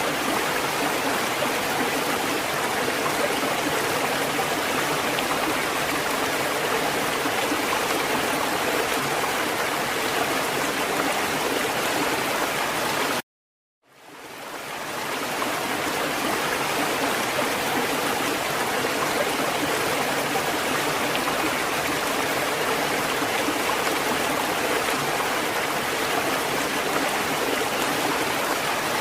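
Steady, even rushing of water with no rise and fall of breaking waves. About halfway through it cuts out abruptly to silence for under a second, then fades back in over a second or two, like a seam between looped recordings.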